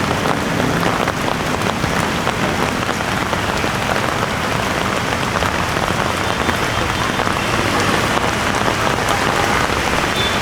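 Heavy rain falling, a dense steady hiss of drops on surfaces.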